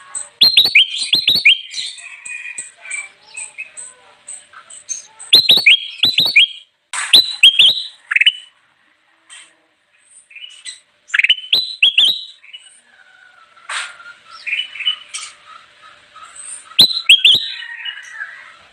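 Kutilang emas bulbul singing: loud bursts of quick, rising chirped notes, about five phrases with short gaps and softer chatter in between.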